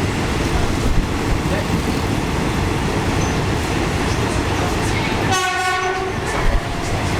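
Passenger train running with a steady rumble heard from inside a carriage, and one short horn blast of under a second about five seconds in.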